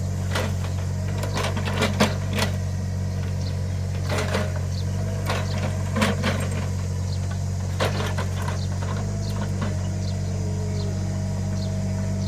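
Small Caterpillar excavator's diesel engine running steadily under digging, with irregular sharp knocks and clanks from the machine working in the soil.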